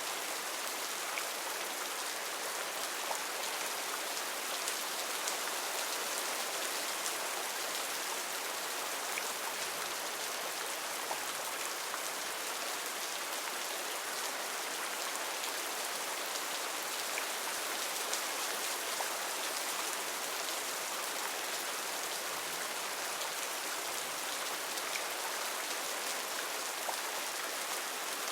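Heavy rain falling steadily on rainforest foliage: a dense, even hiss with scattered individual drops ticking through.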